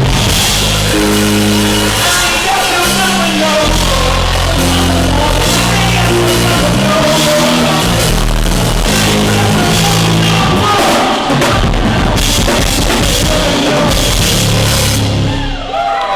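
Live band playing loud through a club sound system: a drum kit, a bass line moving from note to note, and a singing voice, in a recording that sounds overloaded because the house system blew out the recording microphone. The sound briefly dips near the end.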